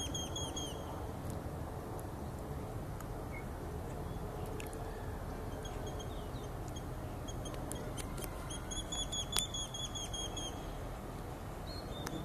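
A small songbird giving fast series of short, high, repeated chirps, several a second, in a strong run at the start and another about eight seconds in, with fainter chirps between, over a steady low background rumble.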